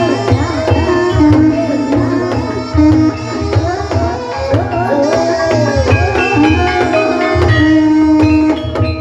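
Banyumasan gamelan music of the kind that accompanies an ebeg hobby-horse dance. Kendang hand drums keep a steady, driving beat under ringing metallophone notes, and a melodic line above them slides up and down in pitch.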